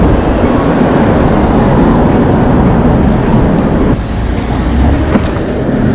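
Loud, steady rushing of wind and street traffic heard while riding an e-bike along city streets, with a brief click a little after five seconds.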